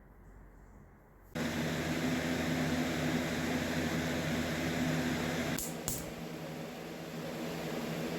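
A steady mechanical hum with hiss, like a motor or fan running, cuts in abruptly about a second in after near quiet. Two short clicks come a little before the six-second mark, and then the hum's pitch changes slightly and it gets a little quieter.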